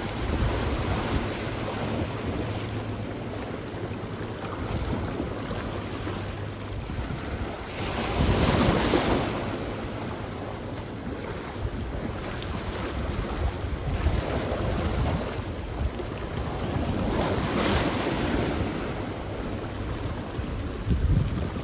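Sea waves washing onto the shore, with two louder surges, about eight and seventeen seconds in, between gentler wash. Wind rumbles on the microphone throughout.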